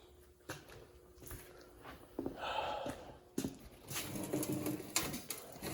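Faint scattered clicks and knocks with short rustling noises, then a few louder sharp knocks near the end.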